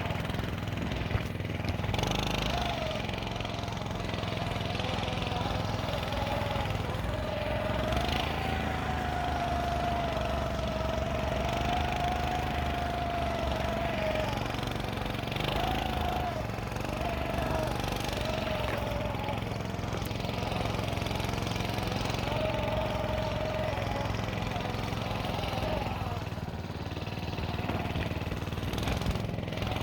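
Small engine of a motorized snow scooter running steadily as it drives through snow, with a wavering whine that rises and falls through the middle.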